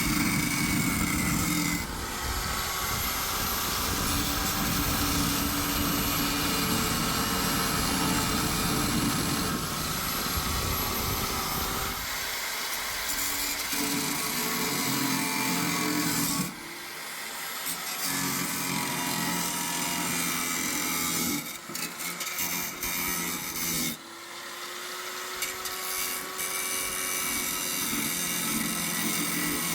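A power tool grinding or cutting with a steady whine, broken by a few short pauses.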